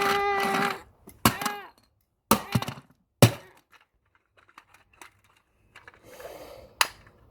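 Hammer blows on a plastic toy truck: four sharp, separate cracking hits, spaced about a second apart and then one more after a pause of several seconds. A long, drawn-out wailing voice comes first and ends before the first blow.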